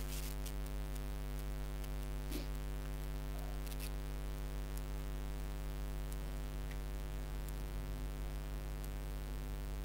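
Steady electrical mains hum with a buzzy ladder of overtones, picked up by the recording microphone, with a few faint clicks in the first four seconds.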